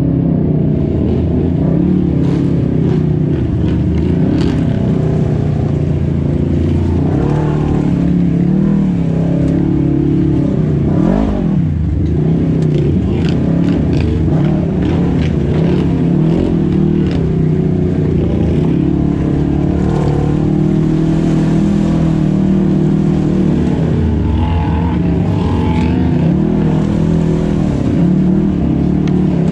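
Engines of off-road side-by-side UTVs running and revving, several engines at once with their pitches rising and falling. One engine sweeps up and back down sharply about eleven seconds in.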